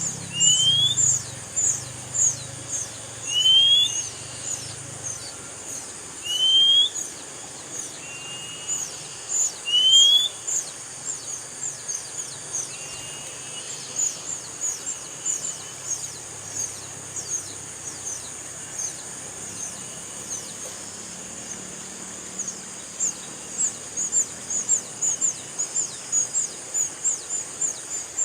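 Wild birds calling: a clear rising whistle repeated every few seconds in the first half, over a constant series of quick, high, falling chips, with a steady high hiss behind.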